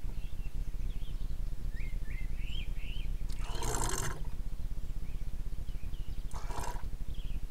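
Small birds chirping in short rising-and-falling notes over a steady low hum, with two brief bursts of noise, the longer one just past the middle.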